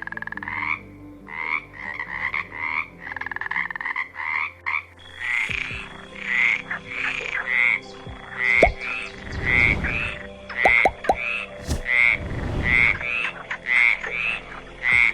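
Frogs croaking: a run of short calls, each rising slightly in pitch, repeated about twice a second. A few low thuds come in the second half.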